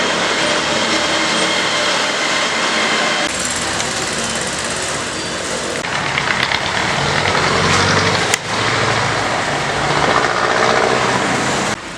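Loud, steady vehicle engine and road noise, changing character abruptly a few times.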